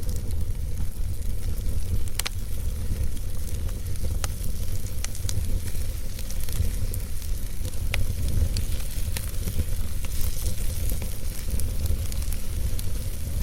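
Wood fire burning in a fireplace: a steady low rumble under a soft hiss, with scattered sharp crackles and pops from the burning logs. The loudest pop comes about two seconds in, and another about eight seconds in.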